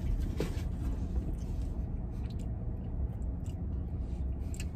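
A man chewing a mouthful of a soft donut sandwich, with faint scattered mouth clicks, over a steady low rumble inside a vehicle cabin.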